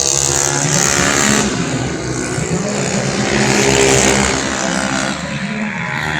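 Several 125cc automatic racing scooters running at full throttle past the track side, their engine notes overlapping and shifting in pitch, loudest about four seconds in.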